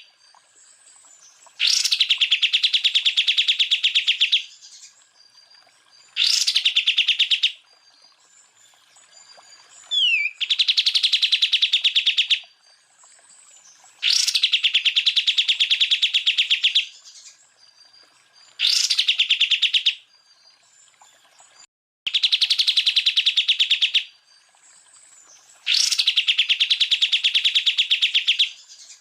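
Cucak ijo (green leafbird) singing its rapid 'tembakan' phrases: about seven bursts of very fast repeated high notes, each one to three seconds long, separated by short pauses, with a quick falling whistle about ten seconds in.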